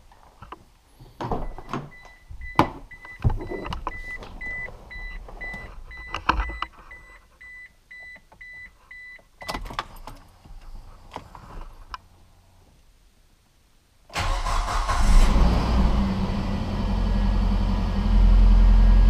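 Knocks and clunks of someone getting into a car while a dashboard warning chime beeps about twice a second for several seconds. About fourteen seconds in, the car engine starts suddenly and settles into a steady idle, running with its mass airflow sensor unplugged.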